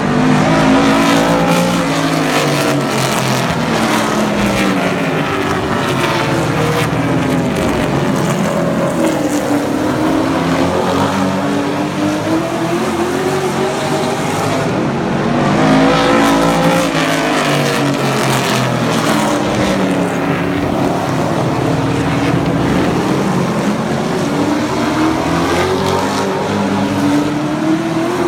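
Several race trucks' engines running hard around a short oval, the pitch climbing and falling in a repeating cycle about every seven seconds as the field accelerates and lifts around the track.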